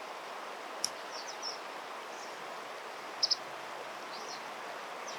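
Steady rushing of river water, with several short high-pitched bird chirps scattered through it and a single sharp click a little under a second in.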